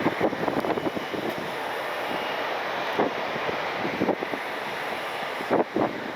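Jet airliner engines running steadily at an airport, with irregular gusts of wind buffeting the microphone.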